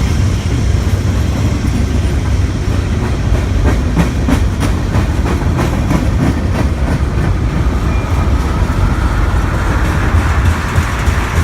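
Train passing close by: a steady heavy rumble, with a run of rapid wheel clicks over rail joints in the middle and a rising hiss near the end.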